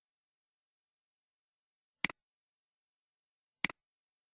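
Two sharp double clicks, one about two seconds in and one near the end, each a loud tick followed at once by a softer one.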